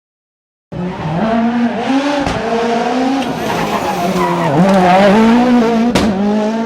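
A rally car driven hard on a stage: its engine runs at high revs, the note dipping and climbing through gear changes and lifts, cutting in abruptly about a second in, with a sharp crack near the end.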